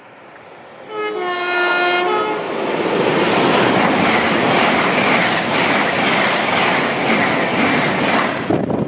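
A train sounds its horn as it approaches, a short pitched blast, then passes close by with a loud rushing and rumbling of wheels on rail that ends abruptly near the end.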